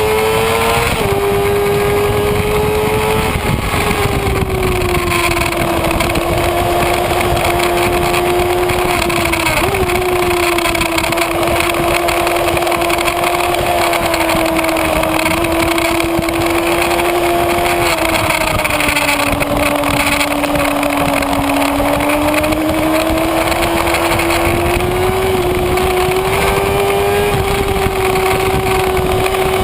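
Kawasaki Ninja ZX-6R inline-four engine running hard at high revs, heard from an onboard mount over loud wind rush. The engine note climbs, steps down sharply about a second in, then holds fairly even, sagging slowly through the middle and climbing again near the end.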